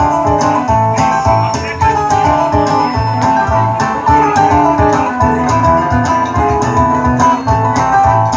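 Live band playing an instrumental passage: a plucked guitar melody over bass and a steady drum beat.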